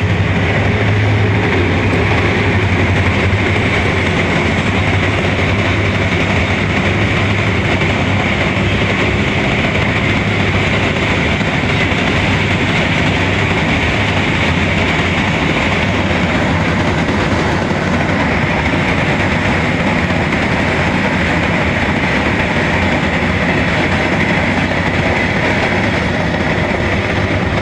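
Train running on the rails: a loud, steady rumble and rattle of wheels and carriages.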